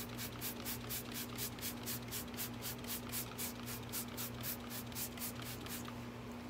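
Soft-bristle brush scrubbing a brake caliper with degreaser and soapy water, in quick even strokes of about five a second that stop near the end, over a steady low hum.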